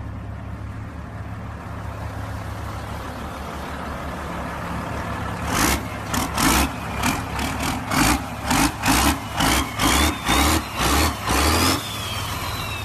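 Truck engine idling, then revved in a rapid series of short blips for about six seconds while a whistle climbs in pitch. The revving stops near the end and the whistle falls away as the engine settles back to idle.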